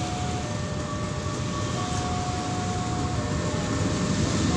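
Freight train passing through a level crossing: a steady rumble of the train. Over it, a held tone switches back and forth between two pitches every second or so.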